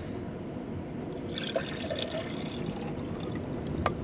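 Liquid pouring into a container for a second or so, about a second in, over a steady background hiss, with a sharp click near the end.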